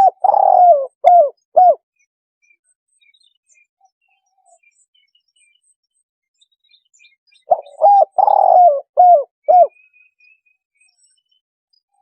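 Spotted dove cooing, a phrase of about five low coos, then after several seconds of pause a second phrase of the same pattern. This is a lure call meant to draw wild spotted doves in. Faint high chirps from small birds sound between the phrases.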